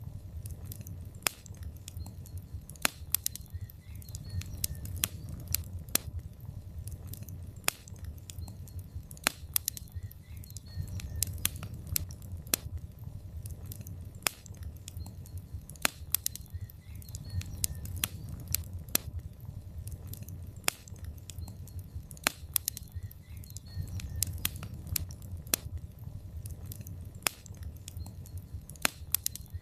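Wood fire burning in a fireplace: logs crackling with many sharp, irregular pops and snaps over a steady low rumble of the flames.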